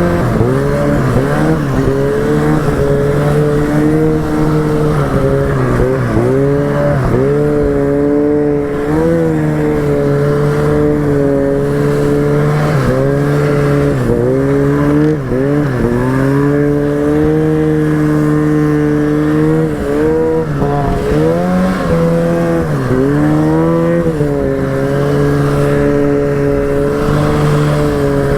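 Arctic Cat snowmobile engine through a GGB aftermarket exhaust, running hard under load while riding in deep snow. Its pitch dips and climbs again every few seconds as the throttle is eased and pinned.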